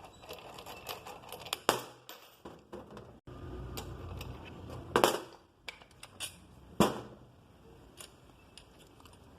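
Metal tools and starter motor parts being handled, clicking and knocking at intervals, with three louder knocks about two, five and seven seconds in. A low hum runs for about two seconds in the middle.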